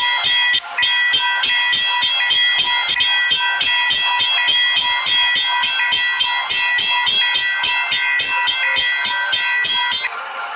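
Railroad grade-crossing bell ringing in a rapid, even rhythm of about three to four strokes a second. It cuts out briefly near the end.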